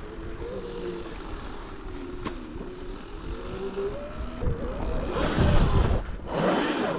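Sur-Ron electric dirt bike's motor whining while riding, its pitch wandering up and down with speed. In the second half a louder rushing noise rises over it.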